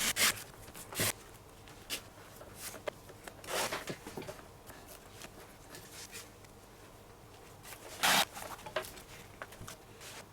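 Leather lace being drawn through the lacing holes of a baseball glove: a few short rasping pulls with light rustling of the leather between them, the loudest about eight seconds in.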